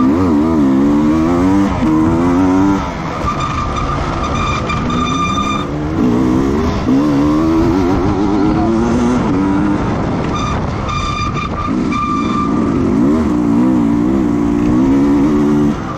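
Racing motorcycle engines running hard, their pitch rising and falling over and over as they rev through the gears. A steady high whine sounds on and off alongside them.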